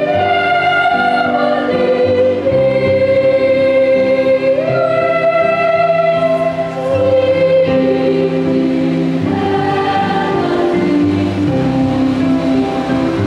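Children's choir singing a Christmas carol in long held notes, the melody moving slowly from note to note.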